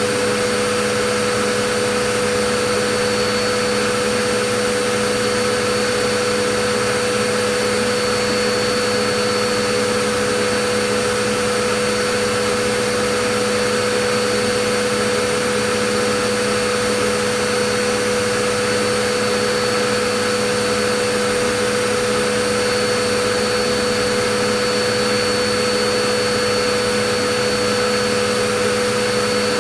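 Vacuum cleaner running continuously at a constant speed: a steady rushing hiss with a fixed motor whine, no change in pitch or level.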